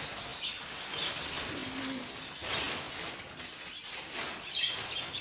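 Budgerigars chirping and chattering in an aviary, short high calls every second or so over a steady rustling noise.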